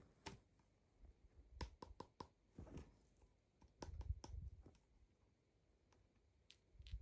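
Faint, scattered clicks and taps with soft low handling bumps: small plastic toy pieces and packaging being handled.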